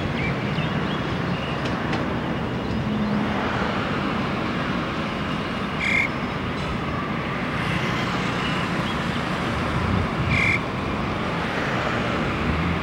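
Steady rumble of a Krupp diesel-hydraulic locomotive and its train approaching in the distance, mixed with road traffic. Two short animal calls come through, about halfway through and again near the end.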